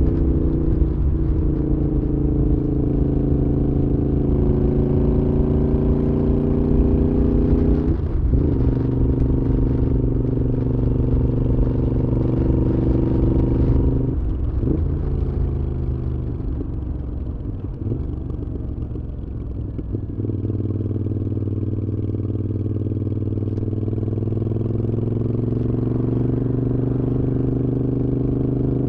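Moto Guzzi V7's air-cooled transverse V-twin running through Mistral aftermarket exhausts while riding: it pulls through several gear changes, eases off and goes quieter for a few seconds past the middle, then settles into a steady cruise that slowly builds.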